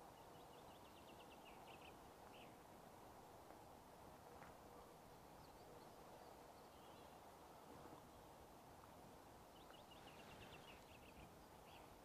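Near silence: faint outdoor ambience, with a songbird singing the same short phrase of quick, high notes twice, once near the start and again near the end.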